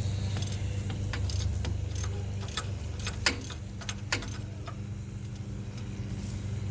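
Light metallic clinks and jingles, a scattering of short sharp strikes that cluster about three to four seconds in, over a steady low hum.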